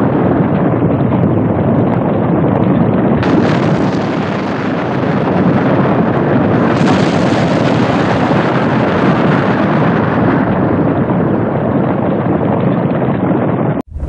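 Loud, steady rushing noise with no pitch or rhythm, cutting off abruptly just before the end into a deeper sound.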